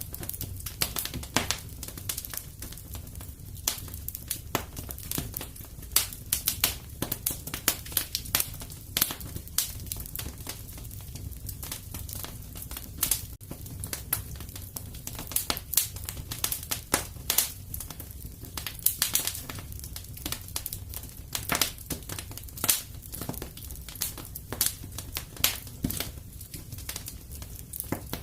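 Fire in a fireplace crackling, with many irregular sharp pops and snaps over a steady low rumble.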